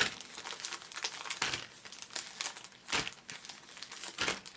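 Foil Pokémon TCG booster packs crinkling as they are handled and counted out into piles, a run of irregular sharp crackles.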